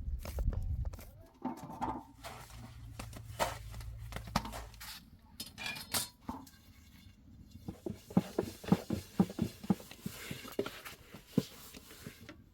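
Irregular knocks and clatter of objects being handled, with a run of quick thumps at about four a second from about eight seconds in.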